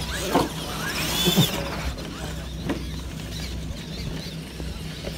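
Radio-controlled monster trucks' electric motors and gears whining in short rising and falling revs, with a few clicks, over a steady low hum.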